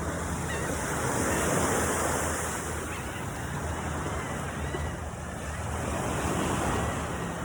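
Ocean surf washing onto the beach, swelling about a second in and again near the end, with wind buffeting the microphone.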